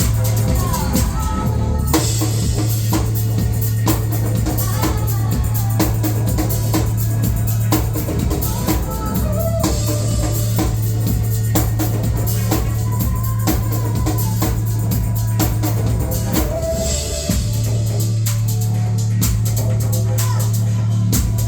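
Live band playing an instrumental stretch of a pop-rock song: a driving drum kit, a heavy sustained bass, and a lead line that bends up and down, with cymbal crashes roughly every eight seconds.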